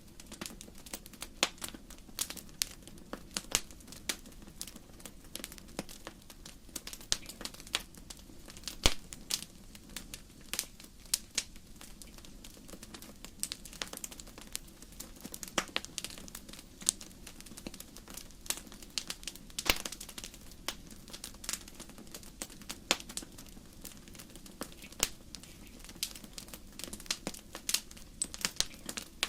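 Burning firewood crackling in a fireplace: irregular sharp pops and snaps, several a second, over a faint steady low noise.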